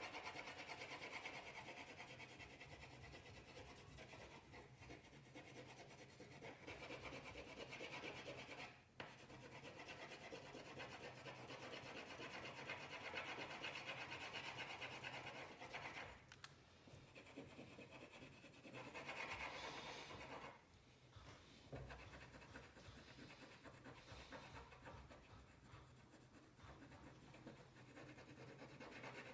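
Faint, steady scratching of a colouring tool rubbed back and forth on paper while an area of the picture is filled in, with a few short breaks as the tool is lifted.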